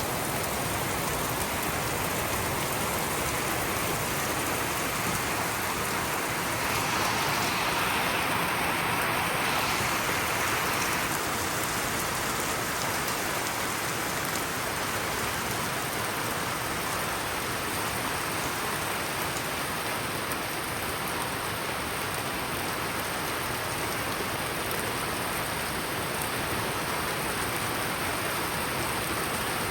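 Steady, heavy rain falling, a dense even hiss that swells a little for a few seconds near the start.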